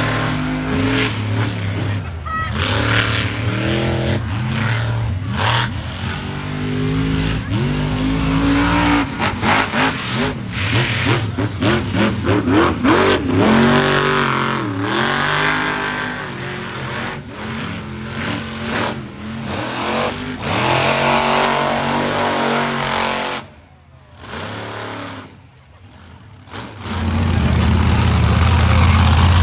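Monster truck engine revving hard, its pitch rising and falling again and again. Near the end it drops away for a few seconds, then comes back loud.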